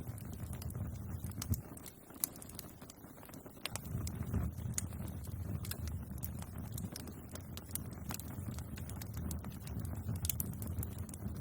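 Bonfire crackling: wood snapping in sharp, irregular pops over a low, steady rumble, which dips briefly about two seconds in.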